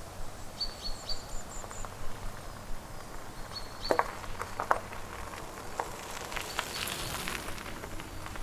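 Forest ambience with small birds giving short, high chirps, a few sharp clicks around four to five seconds in, and a brief patch of hiss near the end.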